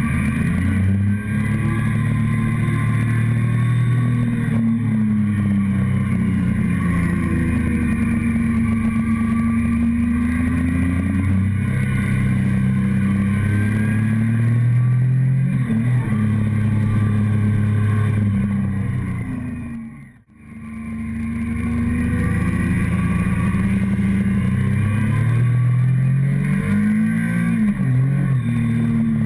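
Motorcycle engine heard close up from a tank-mounted camera, its pitch climbing and dropping repeatedly as the rider accelerates and shifts, with wind noise over it. The sound dips sharply and cuts out for an instant about twenty seconds in, then returns.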